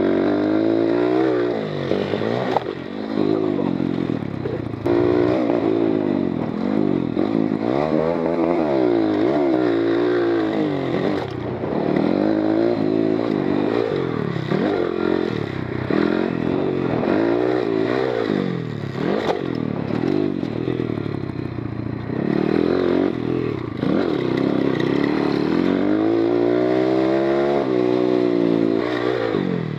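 GIO X33 140cc pit bike's oil-cooled single-cylinder four-stroke engine being ridden hard, revving up and dropping back again and again, its pitch climbing and falling every second or two as the throttle is opened and shut.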